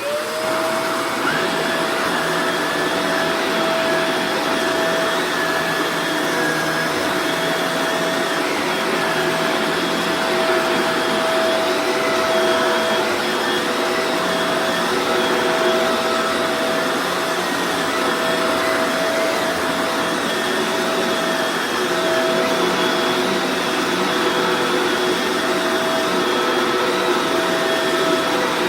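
Upright vacuum cleaner switched on, its motor whine rising quickly to a steady pitch, then running steadily with a loud rush of air.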